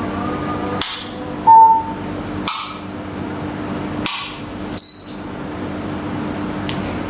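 Talking parrot making short sharp calls: a brief note about a second and a half in and a high whistle near five seconds, with breathy hisses between.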